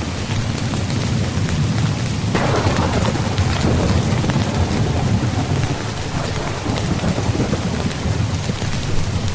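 Steady rain drumming on a tent, with a deep low rumble underneath. About two and a half seconds in, a louder rush starts suddenly and fades away over a few seconds.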